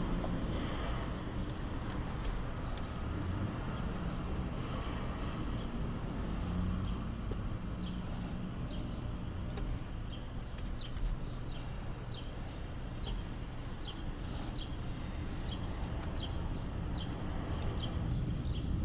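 A bird chirping over and over, short high notes about once or twice a second, thickest in the second half, over a steady low background rumble.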